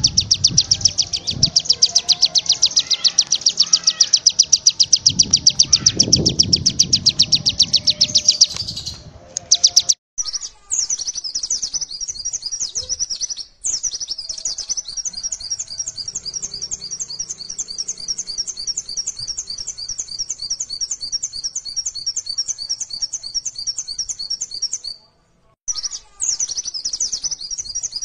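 Songbirds singing long runs of rapid, high, repeated chirps, the kind of masteran song used to train other songbirds. The song cuts out abruptly a few times, as if switching between recordings.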